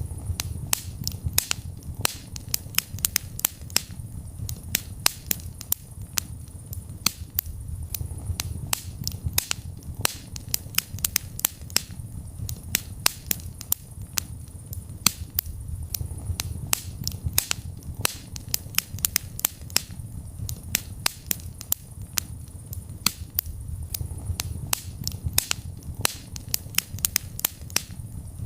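Wood fire in a fireplace crackling: frequent sharp pops and snaps, several a second and unevenly spaced, over a steady low rumble of the flames.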